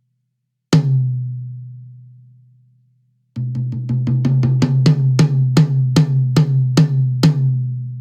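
Close-miked Yamaha Recording Custom tom struck once and left to ring out with a deep, sustained tone. About three seconds later it is played again: a quick run of soft strokes that builds into evenly spaced strong hits, roughly two or three a second, the last one ringing on past the end.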